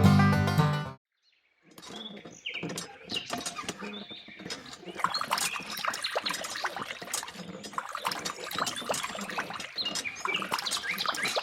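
Many small birds chirping and tweeting in a dense, busy chorus, starting after a short gap about two seconds in.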